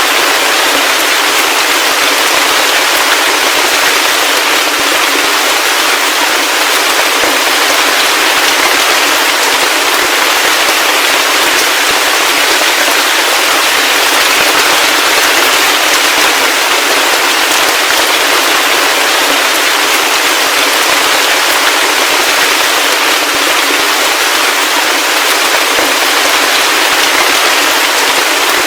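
Heavy rain falling steadily: a dense, even hiss of countless drops striking a surface, with no low rumble.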